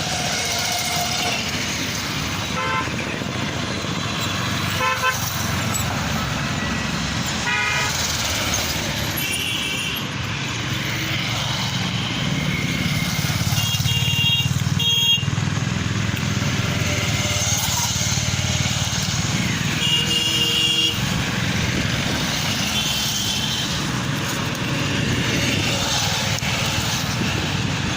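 Steady road traffic rumble with several short vehicle horn honks scattered through it.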